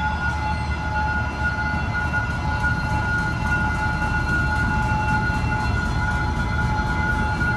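D13E diesel-electric locomotive running under load, a steady low engine rumble under a steady high whine.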